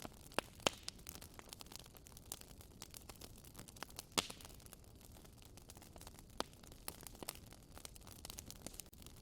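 Wood fire burning in a fireplace, crackling with irregular sharp pops over a soft hiss; a few pops stand out louder, about half a second in and again around four and six seconds.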